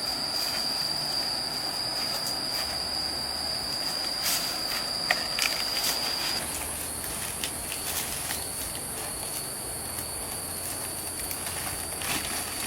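Insects shrilling in a steady high-pitched whine over the rush of a running stream; about two-thirds of the way in the whine jumps to a higher pitch. A few sharp knocks come around the middle.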